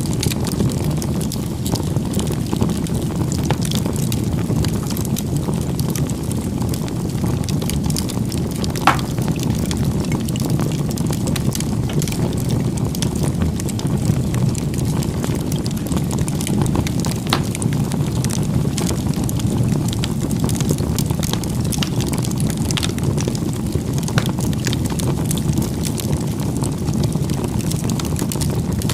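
Wood fire burning: a steady low rush of flames with scattered crackles and small pops, one sharper pop about nine seconds in.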